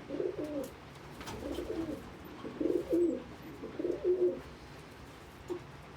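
Domestic pigeon cooing: four low coos, about a second apart.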